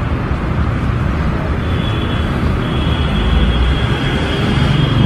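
A motorcycle engine held at high revs near its redline, heard from some way off over a steady low street-traffic rumble. A thin high steady whine from the engine comes in about two seconds in and holds.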